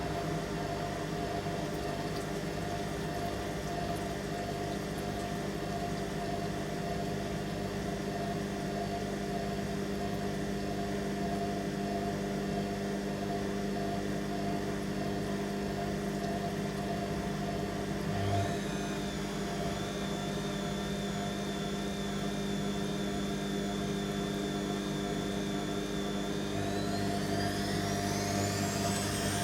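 Candy Aquamatic 100F washing machine's motor during its 600 rpm intermediate spin: a steady hum. A high whine sets in about two-thirds of the way through, and near the end the whine rises steeply in pitch as the drum speeds up.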